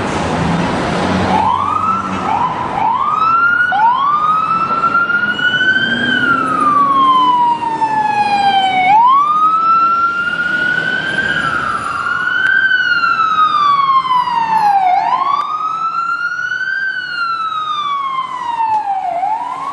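American fire engine sirens in wail mode: several sirens overlap, each rising quickly in pitch and then falling slowly over a few seconds. They are loud, described as "too loud."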